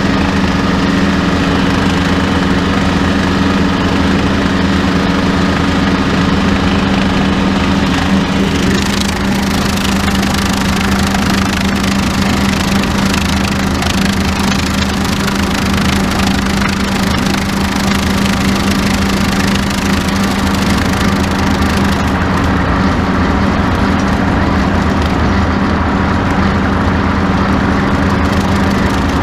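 Tractor engine running steadily with a bush hog mowing tall grass. The engine hum holds constant, and from about nine seconds in a rougher hiss from the cutting grows in the upper range.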